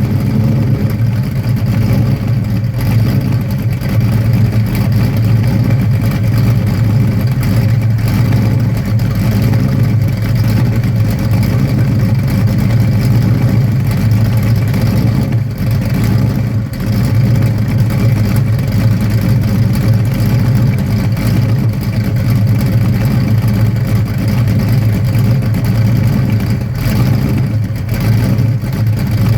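Ford 351 Cleveland V8 in a 1967 Mustang running steadily with a low note, breathing through Hooker headers, an X-pipe and 2.5-inch Pypes race exhaust.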